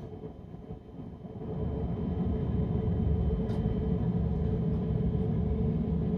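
Running rumble inside a diesel passenger train's carriage, swelling about a second and a half in and then holding steady with a faint hum.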